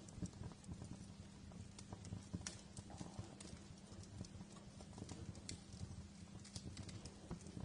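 Wood fire crackling: irregular sharp pops and snaps, several a second, over a low steady hum.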